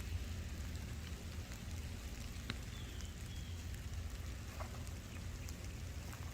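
Steady light rain falling, with a few scattered drips ticking.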